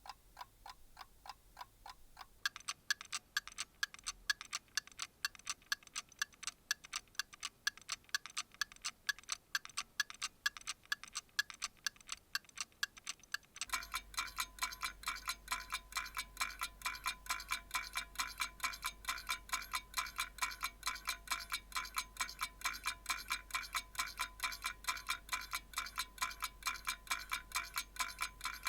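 Clock ticking fast and evenly, each tick sharp and slightly ringing. The tick changes character about two seconds in and again partway through, as one clock recording gives way to another.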